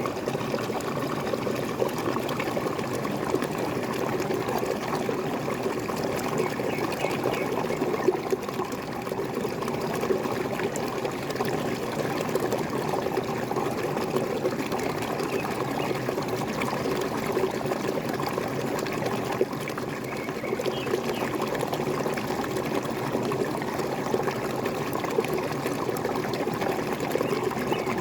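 Small waterfall: water pouring and splashing steadily, without a break.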